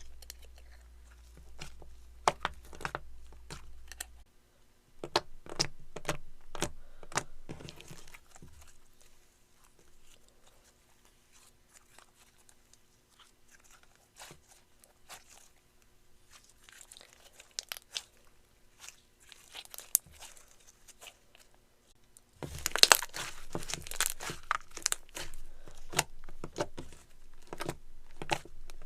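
Jelly slime being squeezed and stretched by hand, giving sharp wet clicks and crackles. It goes quieter and sparser in the middle, then a dense run of loud crackling starts about two-thirds of the way in.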